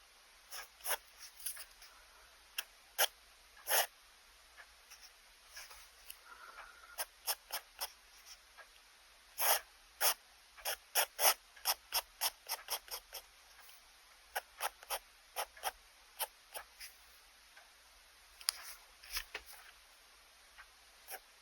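A pen scratching across paper in short drawing strokes, with a quick run of closely spaced strokes in the middle.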